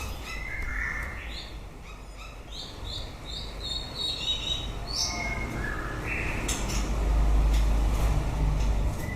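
White-rumped shama singing: a varied string of short whistled notes and phrases, jumping between pitches. A low rumble rises underneath over the last couple of seconds.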